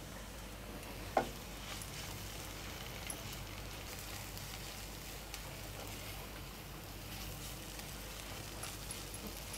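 Onion and besan sabzi sizzling softly in a nonstick frying pan while it is stirred with a silicone spatula, with faint scraping and light ticks. A brief louder sound comes about a second in.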